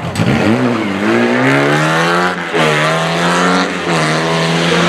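Rally car engine accelerating hard, its pitch climbing, then dropping sharply about halfway through as it shifts up a gear, climbing again and holding steady near the end.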